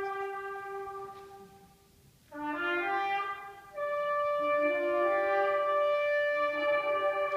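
Concert wind ensemble playing slow held chords with brass to the fore; the first chord fades away about two seconds in, and after a short pause the band comes back in with new sustained chords that swell fuller a little later.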